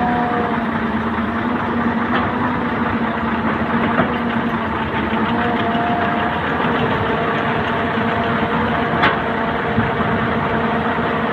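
Heavy diesel earthmoving machinery running steadily, its engine note shifting slightly in pitch, with two sharp knocks, one about four seconds in and a louder one about nine seconds in.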